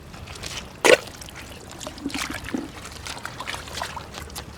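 Water splashing and trickling in irregular short bursts, with one loud sudden sound about a second in.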